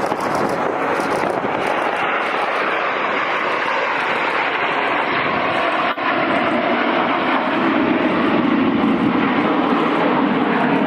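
Jet engines of the Frecce Tricolori's Aermacchi MB-339 jets flying a loop overhead: a loud, steady jet engine noise that grows louder and deeper after about six seconds.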